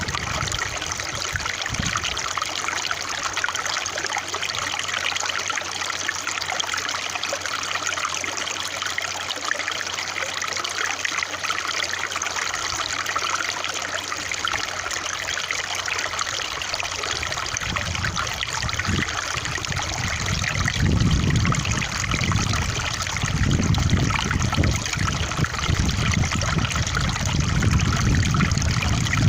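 Small stream trickling and babbling steadily. From a little over halfway through, low irregular rumbles come in underneath and grow louder toward the end.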